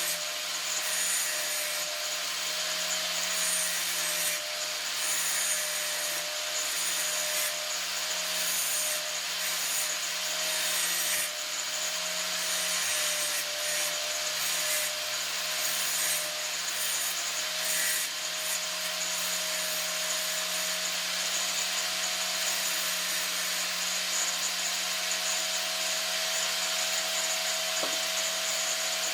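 A power tool runs steadily, grinding metal: a harsh, continuous abrasive hiss over a motor whine that holds one pitch and wavers slightly under load.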